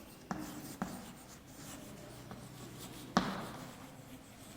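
Faint sound of writing by hand, with three short taps, the loudest about three seconds in.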